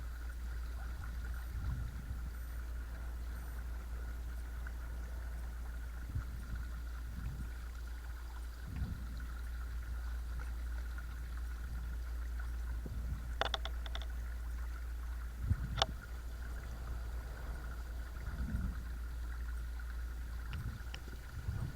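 Kayak running under a Watersnake T24 12-volt electric trolling motor: a steady thin hum over a low rumble, with water gurgling and lapping along the hull. Two sharp clicks come about two seconds apart a little past the middle.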